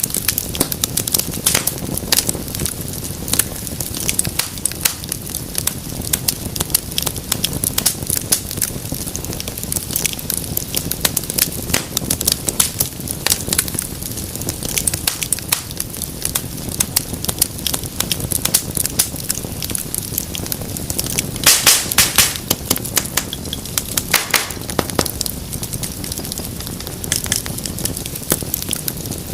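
Wood fire crackling and popping, a dense run of sharp snaps over the low rush of the flames. A flurry of louder pops comes about three-quarters of the way through.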